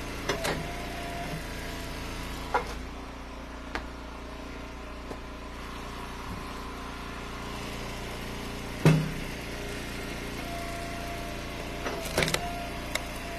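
Gas engine of a hydraulic log splitter running steadily as dry ash rounds are split, with sharp cracks and knocks from wood splitting and pieces dropping, the loudest about nine seconds in. A higher, steady whine comes in near the end.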